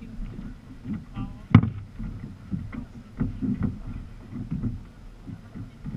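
Sea kayak under way: water sloshing against the hull and the paddle working, with irregular knocks and one sharp knock about one and a half seconds in.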